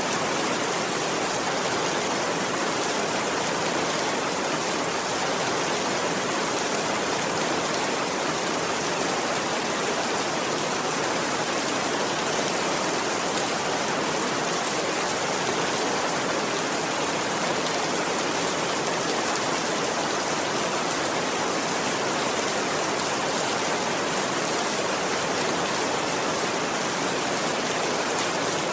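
Steady rainfall, an even hiss that holds the same level throughout, with no thunder.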